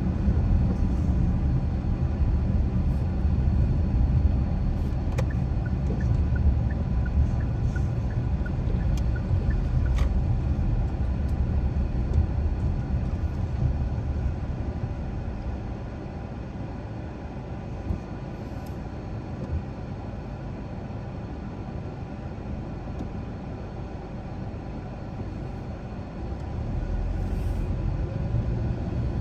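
Car driving, with a steady low rumble of engine and tyres on the road. The rumble eases off around the middle and builds again near the end. A faint, even ticking runs for a few seconds early on.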